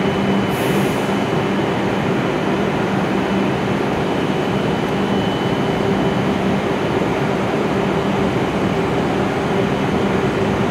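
W7 series Shinkansen train standing at the platform, its onboard equipment running as a steady blower noise with a constant low hum. A brief high hiss about half a second in.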